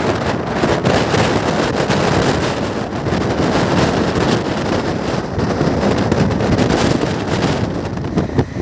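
Fast train running at speed: a loud, steady rush of wheel and track noise with heavy wind buffeting on the microphone. The noise eases off slightly near the end.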